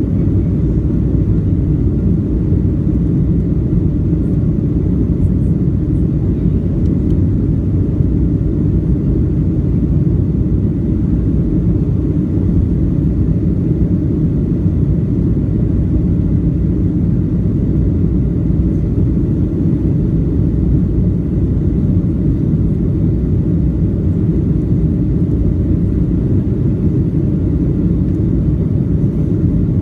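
Airliner around takeoff: a steady, loud, low rumble of engines and airflow, with no change in level.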